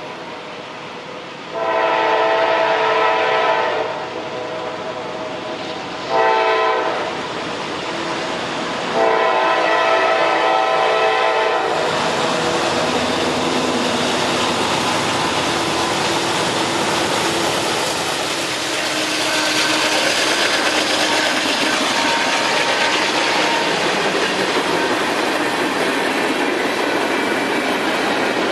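Norfolk Southern diesel freight locomotive's air horn sounding three blasts, long, short, then long, as the train approaches. The train then runs past, its wheels and cars making a loud, steady rumble and clatter on the rails.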